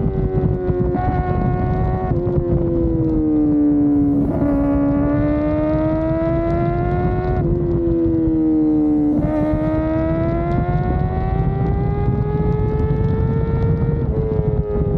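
Kawasaki ZX-4RR's 399 cc inline-four engine running at high revs while riding, its high-pitched note slowly falling and rising, with several abrupt pitch steps from gear changes. Low wind rush runs underneath.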